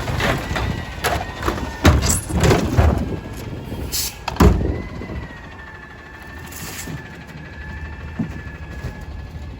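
Garbage truck working a pickup: a run of metal clanks and bangs as refuse and cart hit the body, then the diesel engine runs steadily under a high, steady hydraulic whine.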